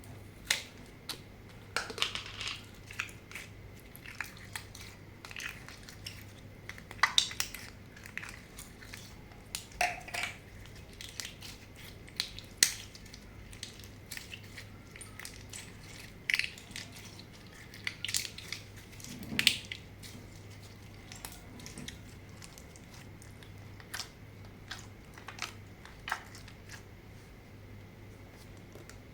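Slime being pressed, stretched and mixed by hand: irregular sticky clicks, pops and crackles, bunched into louder clusters several times.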